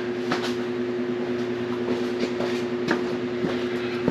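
Steady background hum made of a couple of constant tones, with a few light clicks and knocks from a mower belt being worked around its pulleys.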